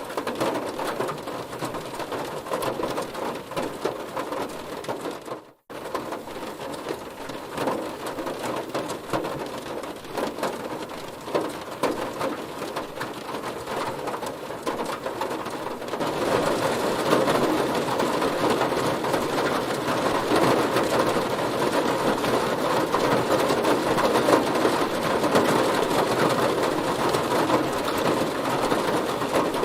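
Heavy rain falling on a car, a dense steady patter of drops. It cuts out for a split second about five seconds in, and from about sixteen seconds in it gets louder and heavier.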